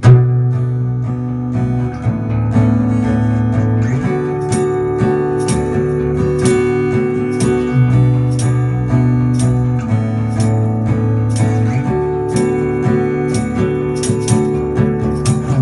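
Acoustic guitar strumming the song's instrumental intro, steady strokes with the chord changing about every two seconds.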